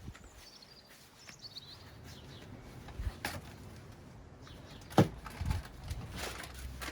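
A garden bird chirps a few times, short high calls sliding downward, then a few dull knocks, the sharpest one about five seconds in.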